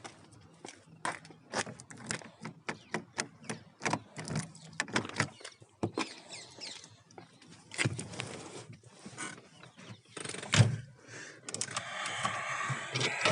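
A run of clicks, rattles and knocks with a heavy thunk about ten seconds in, then the Fiat Uno's 1108cc FIRE engine is turned over for a brief moment and catches, starting cold on LPG without choke and settling into a steady run near the end.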